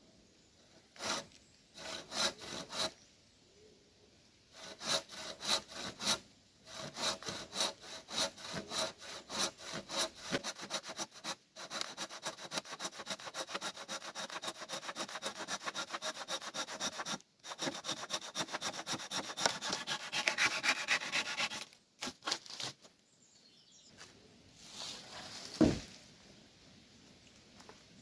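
Hand saw cutting through wood: a few slow strokes at first, then a long run of fast, even strokes that stops suddenly. A single thump near the end.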